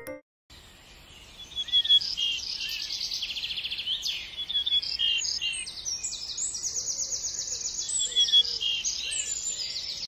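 Small birds singing: a busy mix of high chirps, fast trills of repeated notes and short whistles, starting about half a second in.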